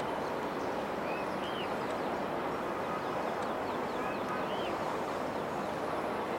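Boeing 787-8 airliner's jet engines running with a steady, even rumble, with a bird's short rising-and-falling call heard twice above it.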